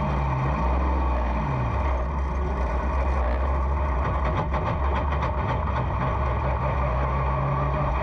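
Race car engine running at low revs, its pitch rising and falling briefly in the first two seconds, then running steadily.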